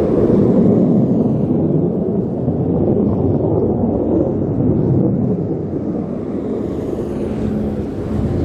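Antonov An-22's four Kuznetsov NK-12 turboprops with contra-rotating propellers, heard as a heavy, steady rumble of engines and propellers in flight, easing slightly near the end.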